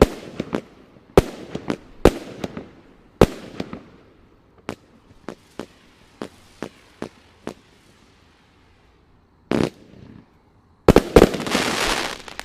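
Consumer fireworks aerial cake (Sky Smackers) firing: a rapid string of sharp, echoing bangs as shells launch and burst, thinning out after about four seconds. A dense loud spell of bangs and crackle comes near the end as the cake finishes.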